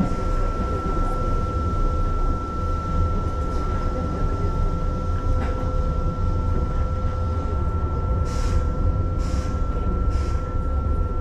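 Keihan electric commuter train running between stations, heard from inside the carriage: a steady low rumble with a steady high tone over it. Near the end there are three short hissing bursts.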